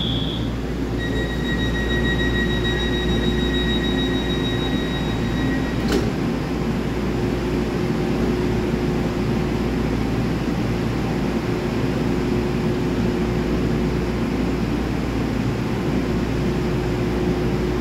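PP push-pull Tze-Chiang train standing at the platform with a steady low hum from its equipment. A high steady beep sounds from about a second in as the doors are closed, then stops with a sharp knock about six seconds in.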